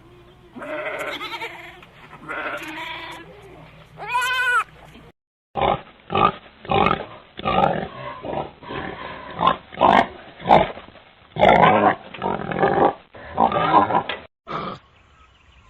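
Three bleats from a goat or sheep, then, after an abrupt cut, a pig grunting and squealing in a long run of short loud calls.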